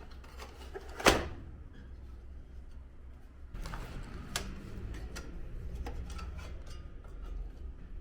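One sharp clack about a second in, then low rumbling handling noise with scattered light clicks: parts of an air conditioner indoor unit being handled and fitted back together during reassembly.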